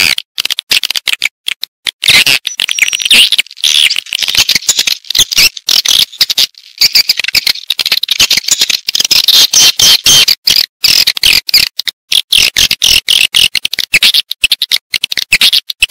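Swiftlet calls: a dense, rapid, high-pitched chirping twitter broken by many brief gaps. This is a swiftlet lure call, played in swiftlet houses to draw birds in to roost and nest.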